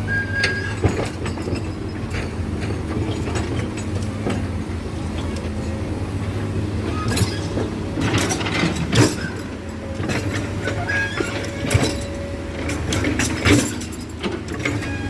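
Heavy diesel excavator running steadily under load, with scattered metal clanks and knocks and a few brief squeals from its working steel. The loudest clanks come around eight to nine seconds in and again near thirteen seconds.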